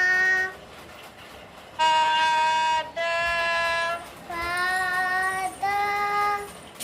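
A child singing a series of held notes in a sargam voice exercise, each note about a second long with short breaks between.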